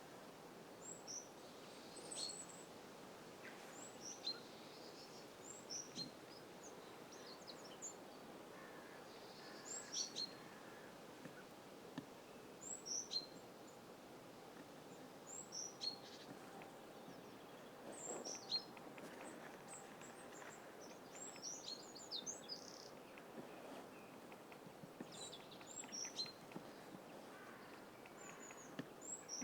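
Small birds calling: short, high-pitched chirps come in scattered clusters every second or few, over a faint steady background.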